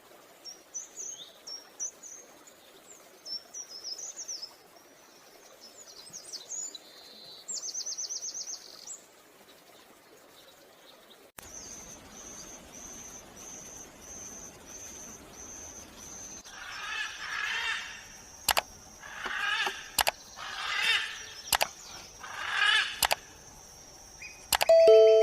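Wild bird calls. First a scatter of high, thin chirps and twitters. Then, after a sudden change in background, comes a steady run of high pulsed notes and a series of five louder calls near the end, which are the black-and-white hawk-eagle's.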